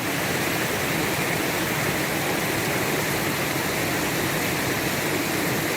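Stream water rushing and babbling steadily.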